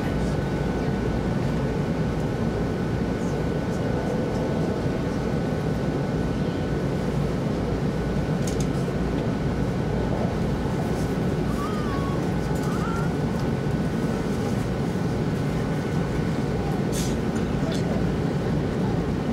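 Steady running noise heard inside the cabin of an E2 series Shinkansen train: an even rumble and rush of the train moving along the track, with a faint constant high tone over it.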